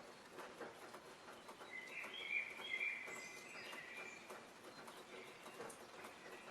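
Songbirds chirping in a forest ambience, with a brief cluster of bright calls about two seconds in, over a faint steady background hiss.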